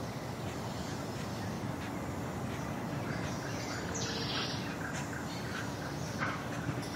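Rural village morning ambience: birds calling, with a rapid run of short repeated chirps from about three seconds in, over a steady low background rumble.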